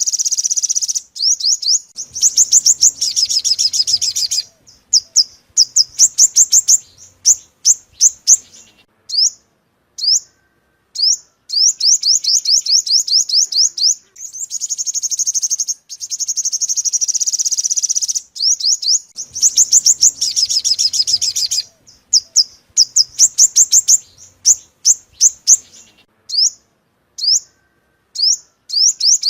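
Sunbird song played as a lure call: fast high-pitched trills alternating with series of separate sharp notes, the same phrase sequence coming round again about every seventeen seconds as a loop.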